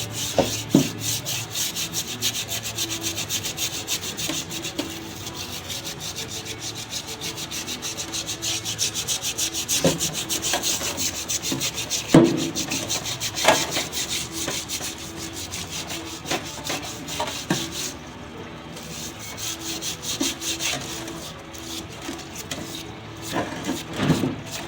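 Rapid, continuous scrubbing strokes on a greasy oil cooler part at a parts cleaner, with a few louder knocks as the part is handled; the scrubbing eases off after about eighteen seconds.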